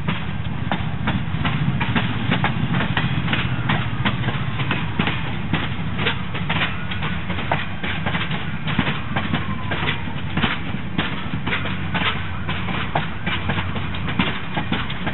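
Lit passenger cars of a train being shoved in reverse roll slowly past, their wheels clicking many times over the rail joints. Under the clicks runs the steady low rumble of the diesel locomotives.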